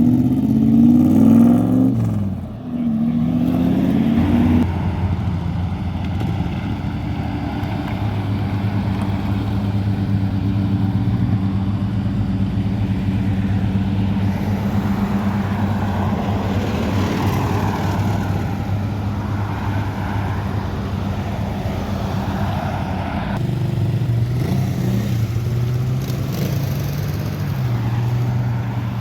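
Car engines: one revs with a rising pitch near the start, then a steady engine note runs on, shifting to a different pitch near the end.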